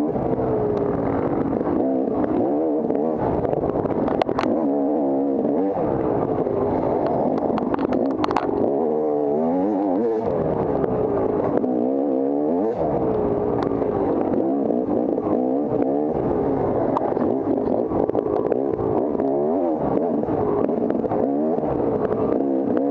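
Dirt bike engine being ridden hard, its revs rising and falling over and over with throttle and gear changes. A few sharp clatters cut through, one about four seconds in and another about eight seconds in.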